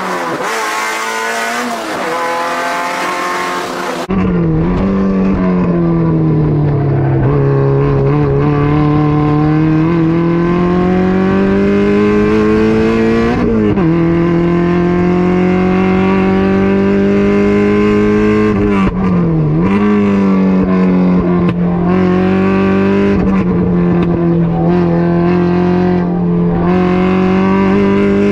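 Race car engine at high revs on track. For the first few seconds it is the 2.5-litre-swapped Mazda MX-5 NC heard from inside the cabin. After a sudden change in sound, a sustained high-revving engine holds its pitch with slow rises and falls, broken twice by quick dips and recoveries at gear changes.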